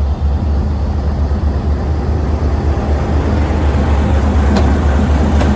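D12E diesel locomotive's engine running with a steady low drone, with a couple of sharp clicks near the end.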